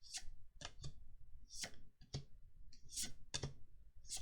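Magic: The Gathering trading cards being flipped through by hand, one after another: about ten short, irregular clicks and snaps of card stock.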